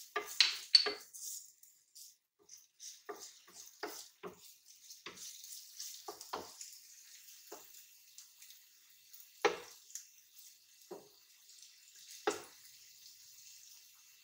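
Ginger-garlic paste sizzling and crackling softly in hot oil in a nonstick pan while being fried to a light golden brown, with a spatula scraping and tapping against the pan at irregular moments. The loudest taps come right at the start and twice later on.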